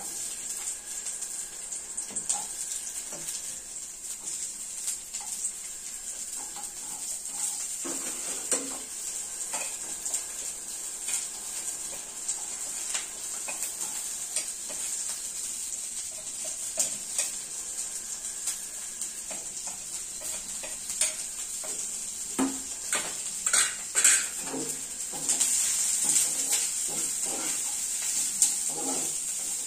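Onions sizzling steadily in hot oil in a pan, the hiss starting as they go in. A spatula stirs them and now and then clicks and scrapes against the pan.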